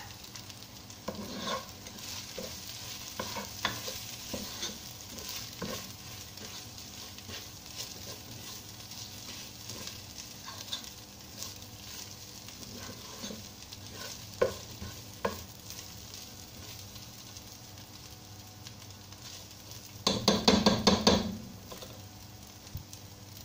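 Onion, ginger-garlic paste and roasted coconut frying in oil in a pot, sizzling steadily while a spatula stirs and scrapes through them. There is a short burst of rapid clattering near the end.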